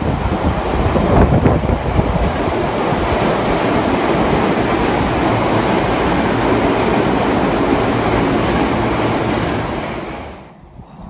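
Tokyu Meguro Line electric train running past the underground platform at speed: a loud, steady rush of wheels on rail and moving air that dies away quickly about ten seconds in as the last car clears.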